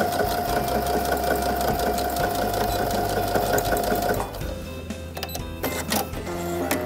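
Brother NQ470L computerized sewing machine stitching steadily through denim, its motor whining at one steady pitch, stopping about four seconds in. A few light clicks follow.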